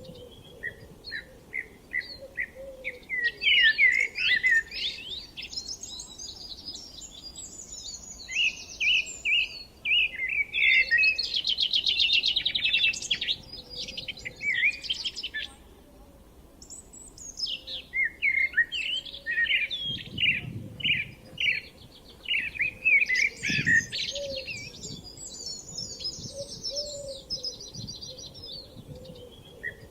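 Several songbirds singing over one another, with quick repeated chirps, sweeping notes and a fast rattling trill; the song thins to a short lull about halfway through before picking up again.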